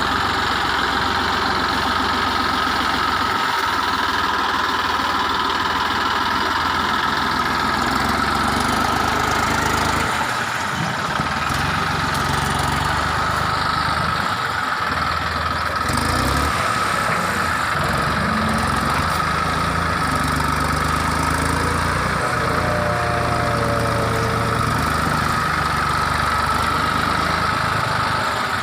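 Tractor engine running steadily, its note shifting a little through the middle stretch.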